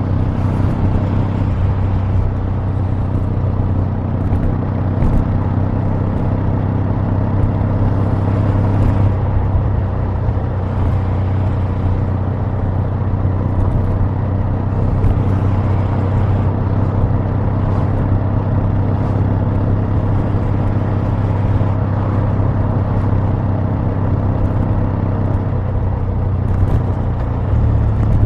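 Kawasaki W800's 773 cc air-cooled parallel-twin engine running, its exhaust note steady and loud, with small shifts in engine speed about a second and a half in, around nine seconds in, and near the end.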